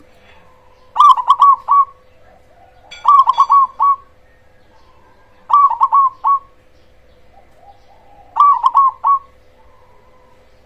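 Perkutut (zebra dove, cemani variety) singing: four loud phrases, each a quick run of about four clipped coos, a couple of seconds apart, with softer coos between them.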